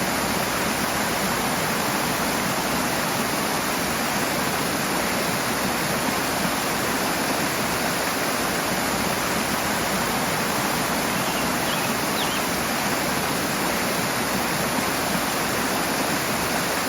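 Rushing water, a steady, unbroken rush of flowing water.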